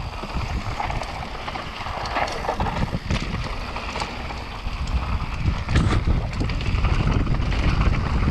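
Wind rushing over the microphone of a mountain bike descending at speed, with tyres running over rough ground and the bike rattling, broken by a few sharp knocks. The rush grows louder after about five seconds.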